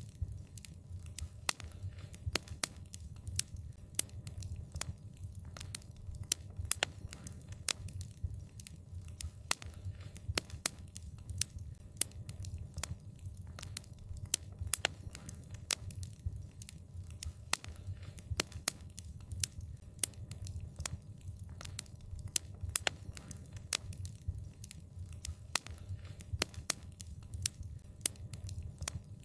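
Wood fire crackling: frequent sharp pops and snaps at irregular intervals over a steady low rumble of the burning fire.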